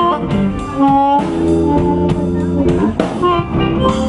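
Slow blues played on guitar with drums, an instrumental passage between sung lines.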